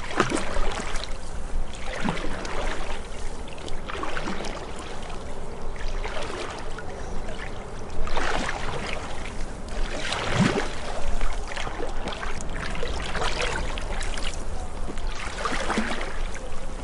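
Canoe paddle strokes splashing and dripping in the water, a swell of splashing roughly every two seconds, over a steady low rumble.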